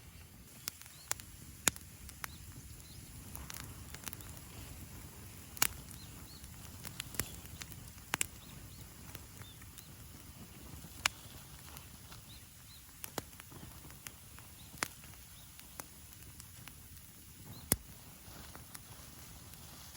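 Wood bonfire crackling: sharp pops and snaps at irregular intervals, a dozen or so, over a low background rumble.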